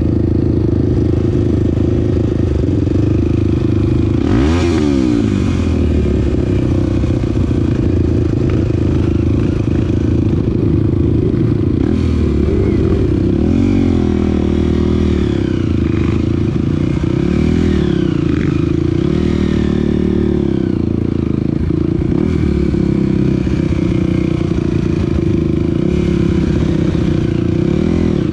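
Off-road vehicle engine heard from on board while riding a trail, its pitch rising and falling again and again as the throttle opens and closes, with rattling from the rough ground.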